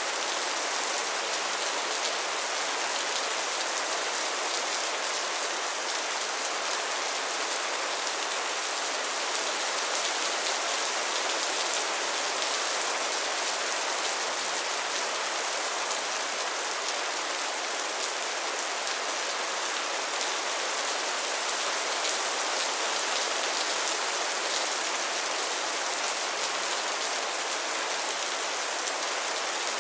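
Steady rain falling on a surface, a constant even patter of drops with no thunder.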